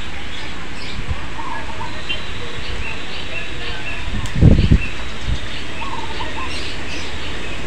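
Small birds chirping repeatedly over a steady background hiss, with a brief low thump about halfway through.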